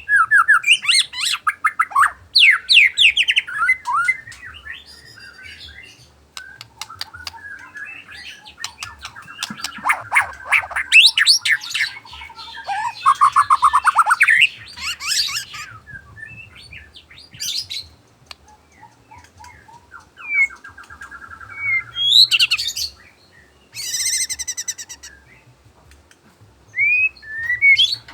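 White-rumped shama (murai batu) singing a varied song of whistled notes, rapid trills and harsh rattling phrases, with short pauses between phrases.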